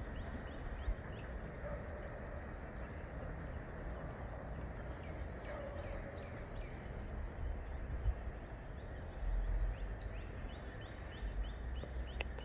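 Birds calling in quick runs of short, falling notes over a steady outdoor hiss, with a few low rumbles.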